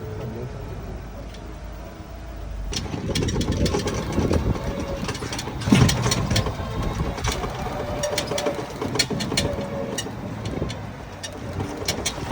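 A car engine running, with many short clicks and rattles from about three seconds in.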